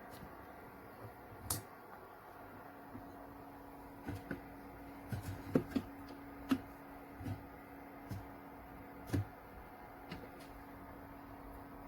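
Light knocks and clicks, about ten of them at irregular intervals, as a mini fridge is handled. A steady low hum starts about two and a half seconds in and carries on.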